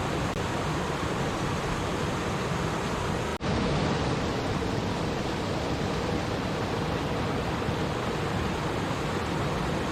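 Running water of a stream, a steady rushing babble. It cuts out for a split second about three and a half seconds in, then carries on unchanged.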